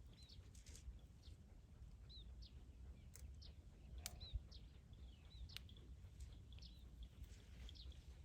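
Faint, high-pitched chirping calls, many short chirps scattered throughout, some sliding up or down, over a low steady rumble.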